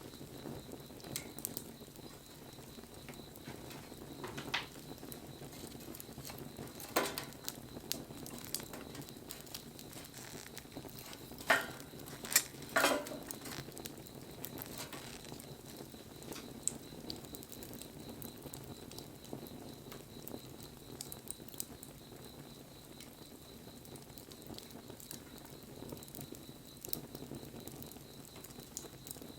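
Wood bonfire burning with a soft steady crackle, scattered small ticks and a few louder sharp pops, several of them close together about halfway through.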